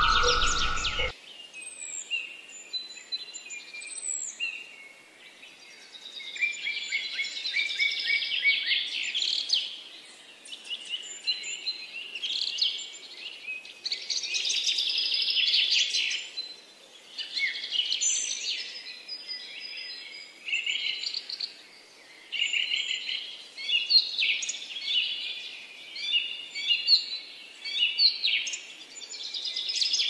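Songbirds chirping and singing, many short calls, trills and whistles overlapping in a varied chorus.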